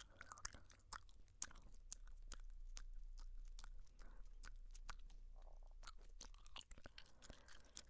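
Gum chewing close to the microphone: soft, irregular wet clicks and smacks from the mouth.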